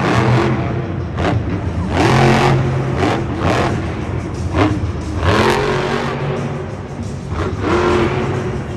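Monster truck's supercharged V8 engine revving hard in repeated surges, its pitch rising and falling again and again.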